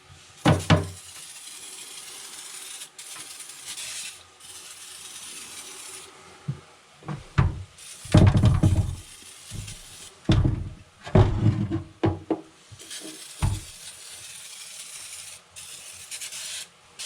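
Hand scrubbing and handling of a diesel injection pump during cleaning: irregular rubbing and scraping with several heavier knocks, the densest run about eight to twelve seconds in, over a steady hiss.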